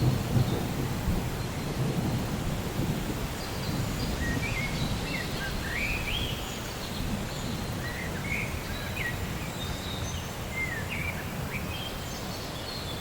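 Steady rain during a thunderstorm, with a low rumble of thunder in the first few seconds. From about a third of the way in, birds chirp over it: many short rising and falling calls.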